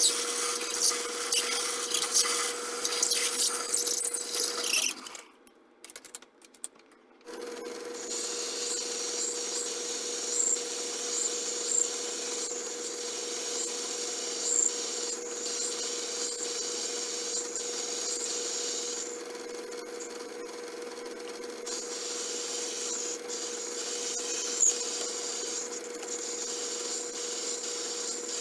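A small machine tool runs with a steady whine while cutting metal, a dry scraping hiss with scattered small ticks over it. The sound drops out for about two seconds around five seconds in, then resumes.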